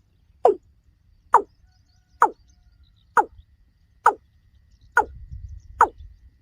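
Watercock (kora) giving its repeated hollow call, seven short notes at about one a second.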